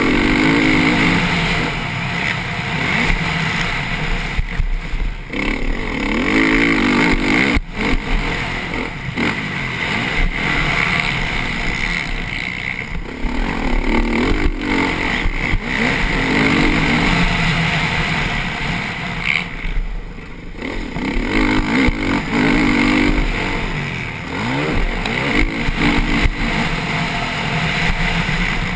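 Motocross bike engine at racing speed, revs rising and falling every few seconds as the throttle opens and shuts through corners and jumps, with a brief drop in revs a little past two-thirds of the way through. A steady rush of wind and dirt noise runs under the engine.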